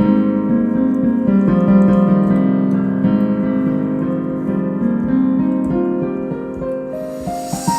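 Improvised solo piano: full low chords held and ringing as they slowly fade, with notes moving above them. About seven seconds in, a soft hiss comes in and single notes begin stepping upward.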